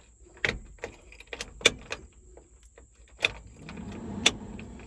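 Sharp metallic clicks and a light jingle of keys as a new ignition lock cylinder is pushed into a 1971 Chevy C10's steering column and worked with its key, about six clicks spaced irregularly.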